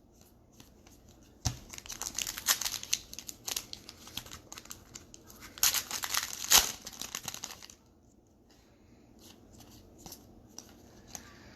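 Plastic-foil trading card pack being torn open and its wrapper crinkled by hand, a dense run of crackling for several seconds that fades to faint rustling about two thirds of the way in.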